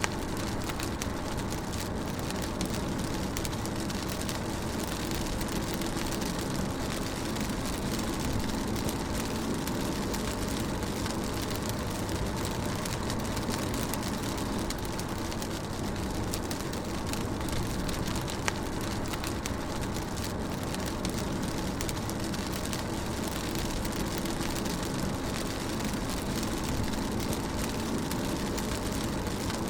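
Car driving steadily in rain, heard from inside the cabin: a constant low engine and road hum under the even hiss and patter of rain on the car. One sharper tap comes about two-thirds of the way through.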